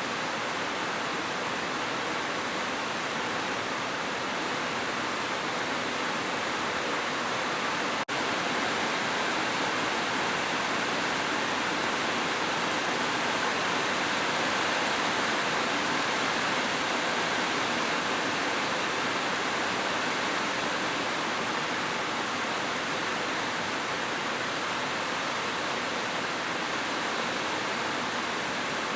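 Heavy rain falling as a steady, dense hiss, with a momentary dropout about eight seconds in.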